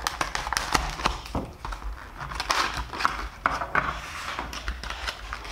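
Plastic blister pack and cardboard backing of a diecast toy car being torn and pried open by hand: irregular crackles, clicks and rustles.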